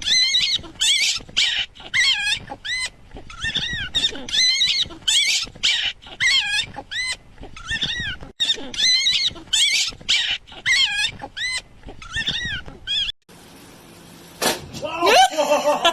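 An animal making short, high-pitched calls over and over, about two a second, each rising and then falling. The calls stop suddenly near the end, and a different, lower sound follows.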